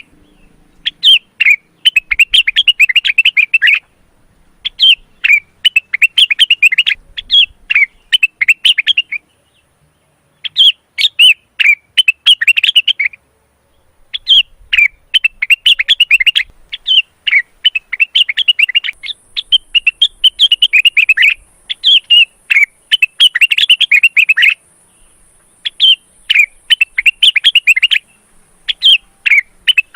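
Male cucak wilis (rengganis) leafbird in breeding condition, singing in fast runs of sharp, chattering chirps. Each run lasts a few seconds, with short breaks between.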